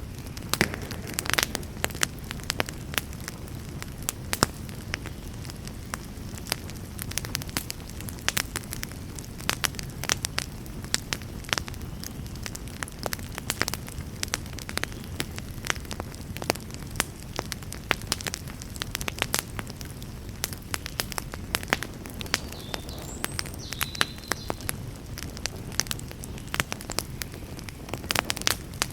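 Wood fire burning in a fireplace: frequent, irregular sharp crackles and pops over a steady low rush of flames.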